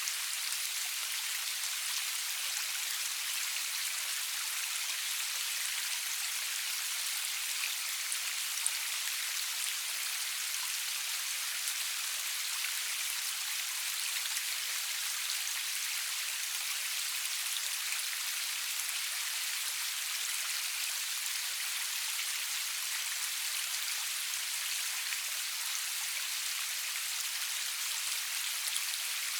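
Steady rainfall: an even hiss of rain with scattered individual drops ticking on a surface, no thunder.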